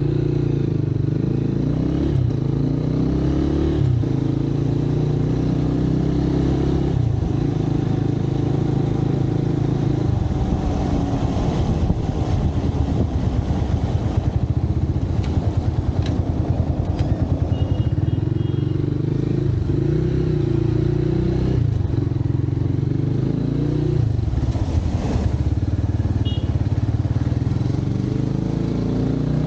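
Motorcycle engine accelerating through the gears, its revs climbing and then dropping at each shift, with a steadier stretch of lower running in the middle.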